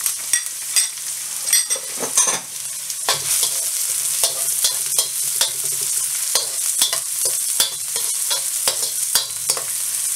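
Chopped garlic and onion sizzling in hot vegetable oil in a pan, stirred with the utensil clicking and scraping against the pan many times.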